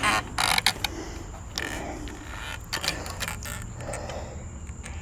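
Clinks, knocks and creaks of metal and wood as a large walnut log is levered round by hand on a manual sawmill's bed.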